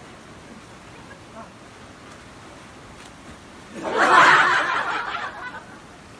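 A person laughing briefly about four seconds in, over the steady rush of a waterfall.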